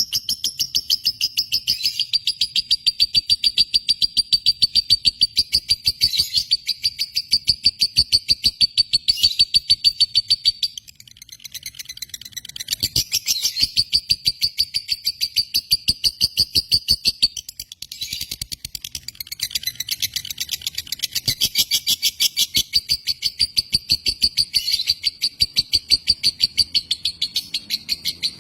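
Lovebird chattering in long fast runs of sharp repeated chirps, about four to five a second, pausing briefly twice.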